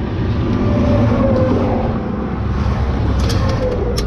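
A motor vehicle engine running with a steady rumble that swells about a second in and then eases off, with a few sharp clicks near the end.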